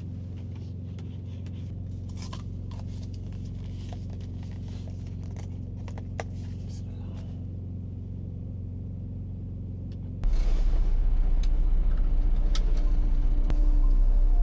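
Steady low hum of an idling truck engine, with a few faint clicks and taps over it. About ten seconds in it jumps suddenly to a much louder, heavier rumble.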